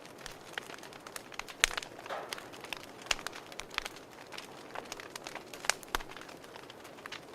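Fireplace fire crackling: irregular sharp pops and snaps over a soft steady hiss.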